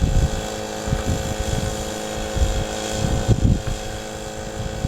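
Small gasoline engine of a dry washer running steadily at a constant speed, with wind gusting on the microphone.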